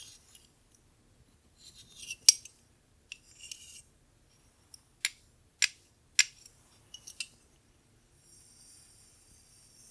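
Crisp, high-pitched snips or clicks from hair-play tools handled close to the microphone, with soft brushing rustles between them. The loudest comes about two seconds in and three more follow in quick succession around the middle, before it settles into a faint steady hiss near the end.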